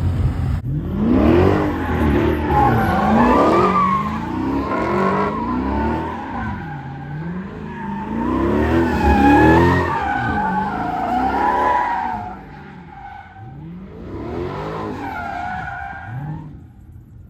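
A car spinning in circles: its engine revs up and down over and over while the tyres squeal. It is loudest in the first few seconds and again about nine seconds in, fades about twelve seconds in, then spins up once more briefly near the end.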